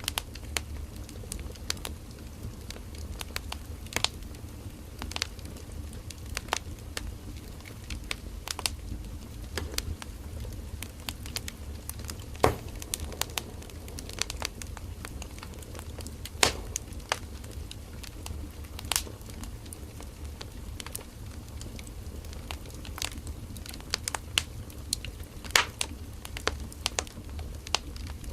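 Firewood burning in a campfire: irregular crackles and sharp pops, a few louder snaps among many small ones, over a steady low rumble of the fire.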